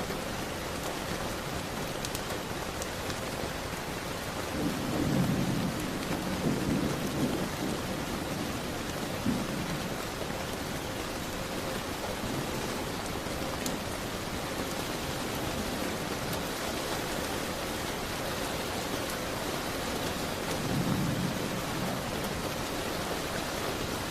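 Steady rain with low rumbles of thunder, one about five seconds in that rolls on for a few seconds and another near the end. A few faint crackles of a wood fire sit under the rain.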